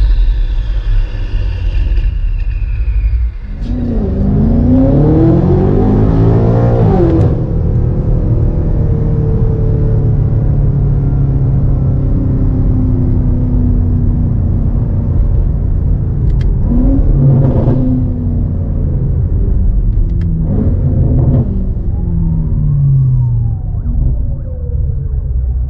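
BMW M8 Gran Coupe's twin-turbo V8 revving up and down several times, its pitch rising and falling, with steadier running in between and a few sharp cracks from the exhaust.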